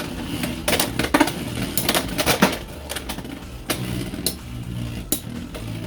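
Two Beyblade X spinning tops, Hells Chain and Viper Tail, spinning in a plastic stadium: a steady whir broken by repeated, irregular sharp clacks as they hit each other.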